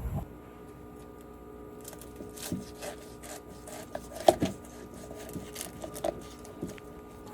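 Scattered knocks and scraping, like something handled on wood, with one sharper knock a little past halfway, over a steady hum.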